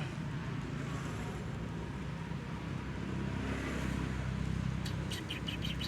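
A motor engine running steadily in the background, a low even hum, with a quick run of short high clicks about five seconds in.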